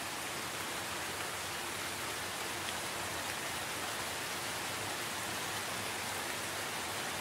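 Steady rain: an even hiss of rainfall that stays the same throughout.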